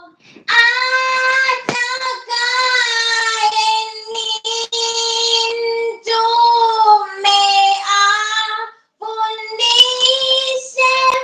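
A high voice singing long held notes unaccompanied, each note lasting a second or two with short breaks between, the pitch dipping lower near the end.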